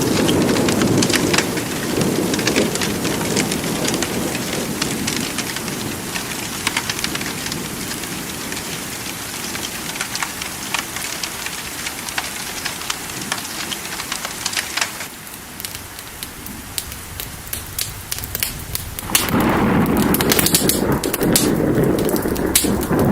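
Steady rain with rolling thunder, dotted with many sharp ticks. The low rumble eases through the middle, and the sound quietens for a few seconds. About four seconds before the end, a fresh peal of thunder swells back in.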